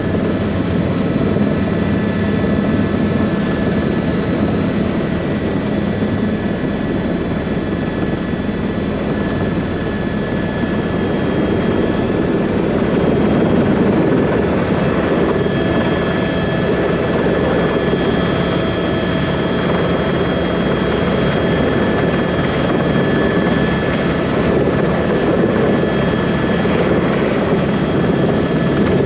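Helicopter turbine and rotor running steadily: a dense rush of rotor noise with a steady high whine over it.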